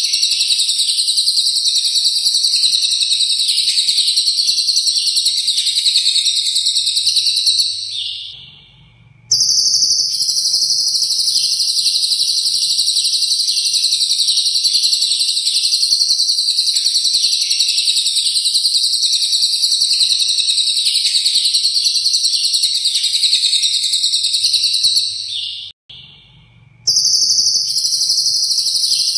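Lovebird singing a long 'ngekek': a continuous, fast, high-pitched rattling chatter, laced with fill notes copied from the cililin. It fades out and breaks off twice, briefly, then starts again at full strength.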